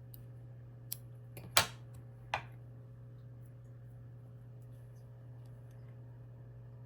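Three small sharp clicks within the first two and a half seconds, the middle one the loudest, from handling the needle and thread, over a steady low electrical hum.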